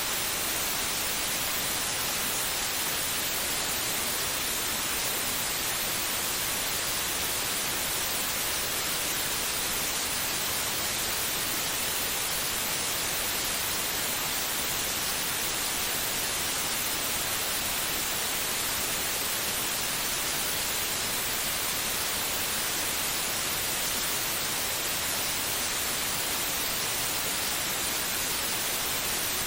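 Steady white noise: an even, unchanging hiss, played as a baby-soothing sleep sound.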